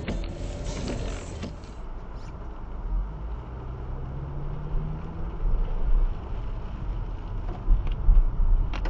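Car driving, engine and road rumble heard from inside the vehicle, with a low engine note rising a little about midway and some louder low bumps near the end.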